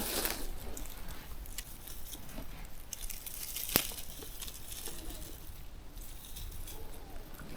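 Faint rustling and crackling of dry forest-floor vegetation being disturbed, with one sharp click about four seconds in.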